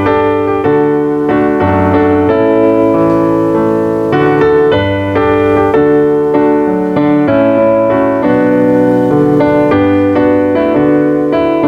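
Slow instrumental keyboard music: held chords that change about once a second, with a steady lower bass line.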